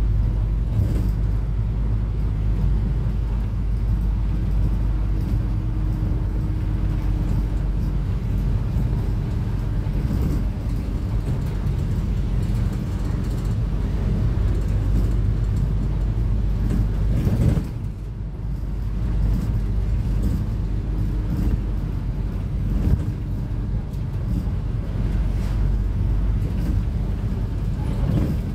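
Cummins ISF3.8 four-cylinder turbodiesel of a Daewoo Lestar bus running on the road, a steady low drone with a faint whine that comes and goes. The level dips briefly about two-thirds of the way through, then recovers.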